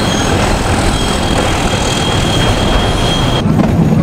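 Metre gauge passenger train running over the rails, heard from an open coach window: a steady rumble of wheels and track with a thin, steady high wheel squeal. About three and a half seconds in, the squeal and the hiss stop abruptly and a lower rumble remains.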